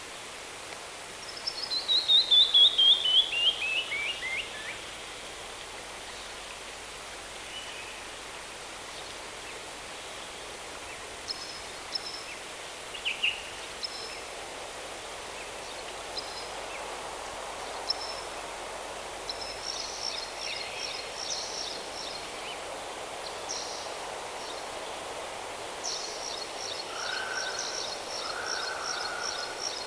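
Wild birds singing in a canyon over a steady background hiss. Early on comes the loudest sound: a run of about a dozen clear whistled notes that falls in pitch and speeds up. After it come scattered short high chirps, and a rapid high trill near the end.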